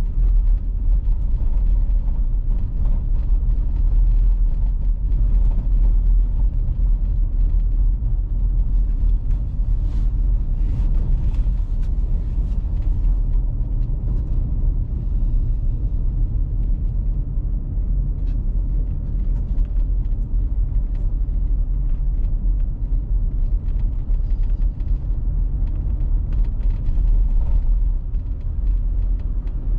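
A car driving at steady speed: a continuous low rumble of road and engine noise, with faint scattered ticks over it.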